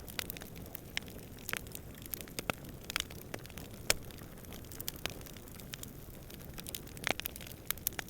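Campfire crackling: irregular sharp pops and snaps of burning wood, one louder pop a little before the middle, over a steady low rumble of fire and distant wind.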